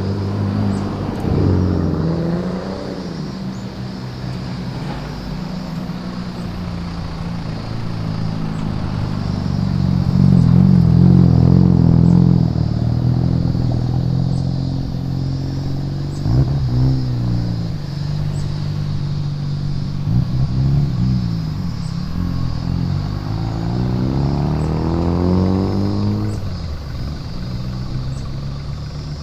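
Engines and exhausts of modified cars driving past one after another, each revving up and falling away, loudest about ten to twelve seconds in, with a short sharp crackle around sixteen seconds in.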